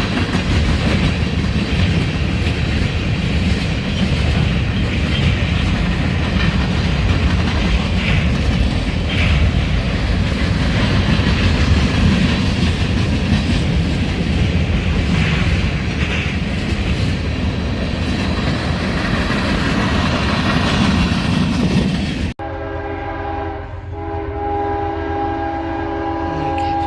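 A train passing close by: a steady rumble and wheel noise on the rails. Near the end it cuts abruptly to a locomotive horn sounding a steady chord of several notes.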